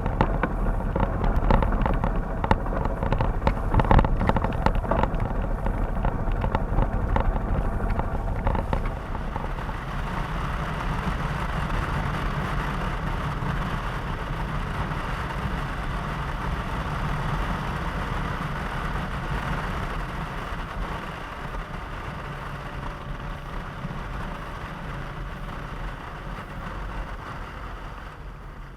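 Motorcycle engine running, rougher with crackling for about the first nine seconds, then steadier and slowly fading toward the end.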